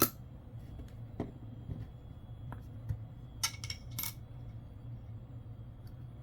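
Nickels clinking as they are handled and set down on a desk: a sharp clink at the start, a lighter one about a second in, and a quick run of clinks around three and a half to four seconds in, over a low steady hum.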